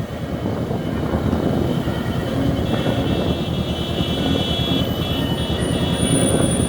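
Motorcycle engine running with a steady rumble of road and wind noise while riding. About two and a half seconds in, a high steady tone joins it and holds on.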